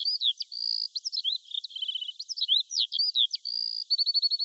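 Songbird singing: a quick, varied run of high chirps, short whistled notes and sweeps, with a fast trill about two seconds in and another rattle of rapid repeated notes near the end.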